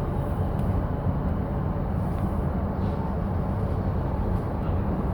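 E233 series 7000 subseries electric train running between stations: a steady low rumble of wheels on rails and car noise.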